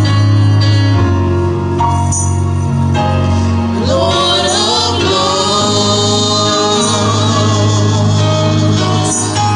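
Gospel song with singing over steady instrumental accompaniment and a sustained low bass; a voice line climbs in pitch about four seconds in.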